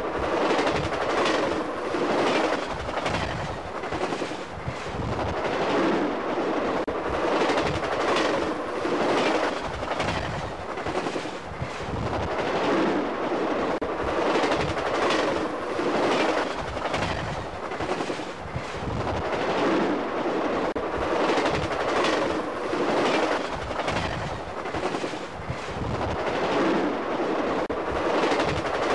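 Long passenger train's cars rolling past close by at speed: a steady rush of steel wheels on rail with a repeated clickety-clack. It swells and dips about once a second as the cars go by.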